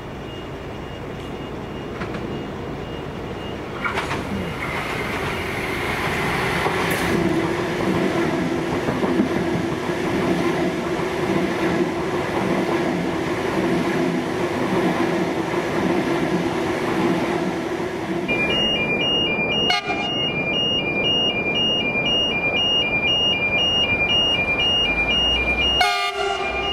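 New Intercity Fleet (D set) electric train passing through a station: it sounds its horn about 4 s in, then runs past with a steady traction hum and wheel noise. In the later part a fast, evenly repeating electronic beeping comes in over the train noise.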